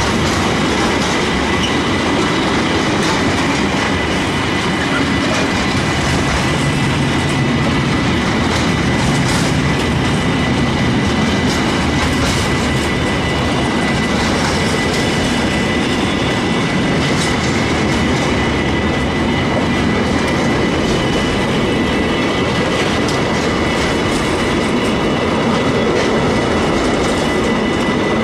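Container wagons of a long intermodal freight train rolling past close by: a steady rumble of steel wheels on rail, with repeated clicks as the wheels cross rail joints. A thin, steady high squeal from the wheels rides over it.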